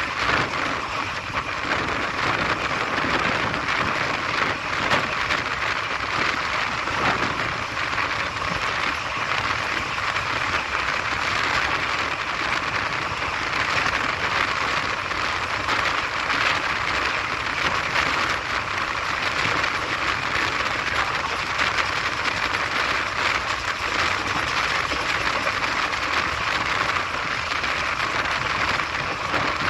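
Passenger express train running at speed, heard from an open coach door or window: a steady rush of wind and wheels on the rails.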